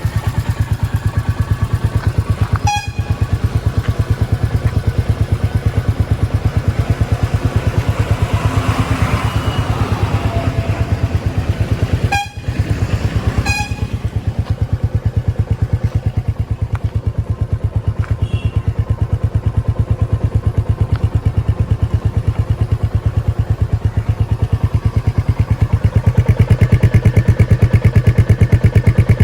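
Motorcycle engine running steadily through its exhaust, each firing pulse distinct in an even beat. It is broken by short cuts about 3 and 12 seconds in, and gets louder near the end.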